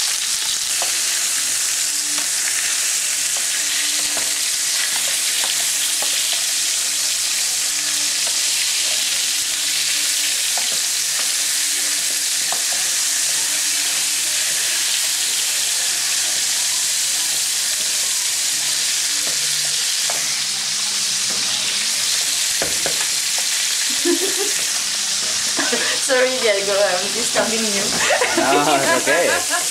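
Chicken pieces and whole garlic cloves sizzling steadily in hot olive oil in a paella pan, the first browning stage of a paella, with the pieces being moved about in the pan. Laughter comes in near the end.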